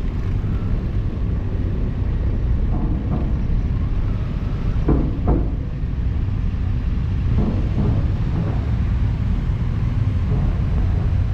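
Steady low engine rumble with a few faint, brief voices around the middle.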